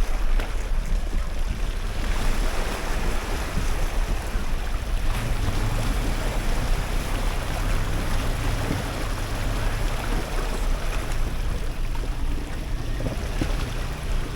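Water rushing in a stream with wind buffeting the microphone, and from about five seconds in an off-road vehicle's engine running low and steady.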